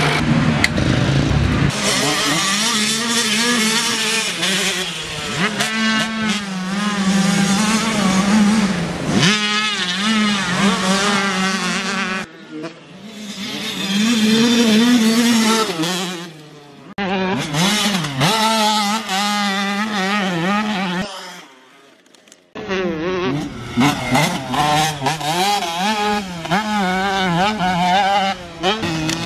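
Husqvarna TC 85 two-stroke motocross bike engine being ridden hard, its pitch rising and falling over and over with throttle and gear changes. The sound breaks off abruptly twice, about twelve and twenty-one seconds in, before picking up again.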